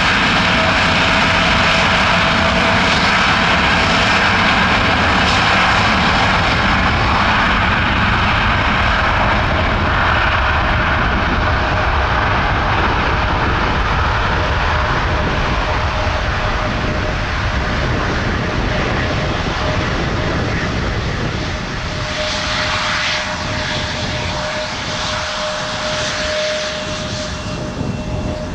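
Jet engines of a Boeing 787-8 airliner at take-off power: a loud, steady rush of noise with a held whine, easing off slowly toward the end as the aircraft moves away.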